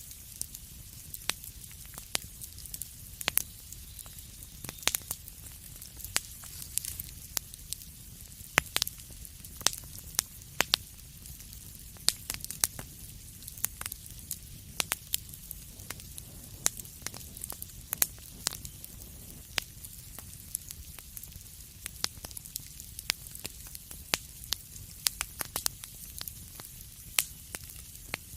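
Wood fire crackling in a fireplace: irregular sharp pops and snaps, sometimes several close together, over a steady soft hiss and a low rumble.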